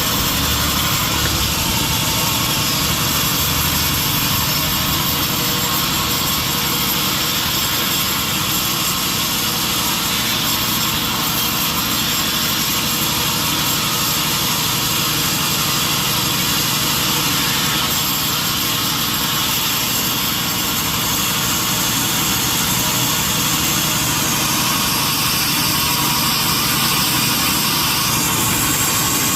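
Industrial sawmill machinery running steadily, a loud continuous mechanical noise with a high whine that dips in pitch a few seconds before the end and jumps back up.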